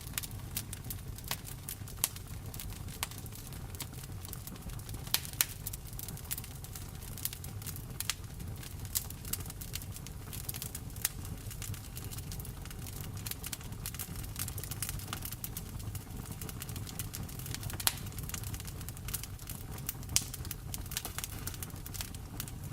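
Wood fire in a fireplace crackling, with many sharp pops scattered over a steady low rumble, mixed with the sound of rain.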